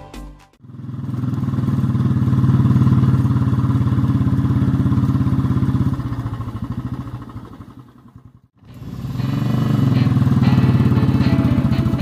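Motorcycle engine running with a steady low, fast-pulsing beat. It fades in just under a second in, dies away about eight seconds in, and returns a moment later.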